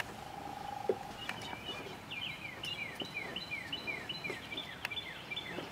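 Bird calling a long, rapid series of short down-slurred whistled notes, about three a second, starting a second or so in. A short steady humming tone comes before it, and a few scattered sharp taps sound throughout.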